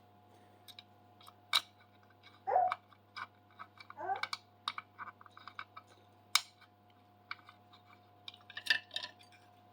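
Small metal parts and hand tools clicking and tapping irregularly as screws and T-nuts are fitted with hex keys during CNC kit assembly, with two brief squeaks around the third and fourth seconds.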